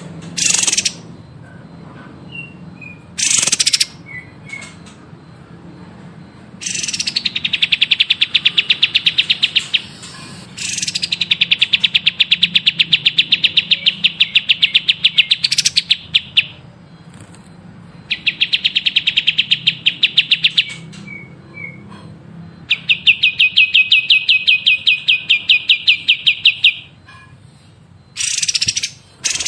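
A songbird singing: long trills of fast repeated notes, each held for several seconds, four times over, with a few short, sharp, loud calls at the start and near the end.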